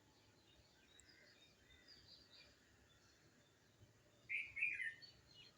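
Songbirds singing: soft chirps and calls throughout, with one louder, short, warbling phrase about four seconds in.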